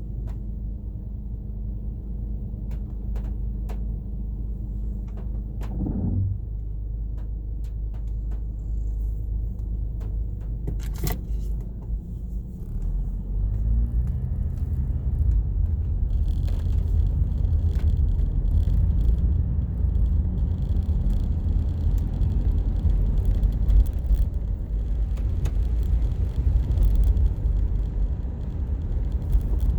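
Car driving, heard from inside the cabin: steady engine hum and road rumble with scattered light ticks. About halfway through the engine pitch rises as the car speeds up, and the rumble and tyre hiss grow louder.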